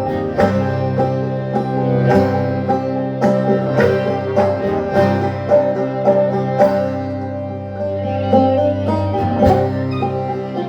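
Instrumental music with plucked strings: a run of quick picked notes over held lower notes, in a steady rhythm.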